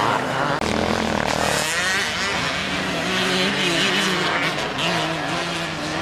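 Classic motocross bikes racing, their engines revving up and down with the throttle, several bikes heard together.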